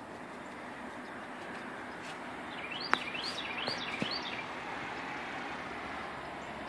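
A songbird sings a quick run of about six short rising chirps around the middle, over steady outdoor background noise. Two sharp knocks come about three seconds in and about a second later.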